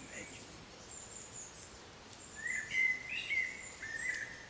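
Woodland birds singing: a run of clear chirps and warbling phrases, loudest from about two and a half to four seconds in, over thin high calls.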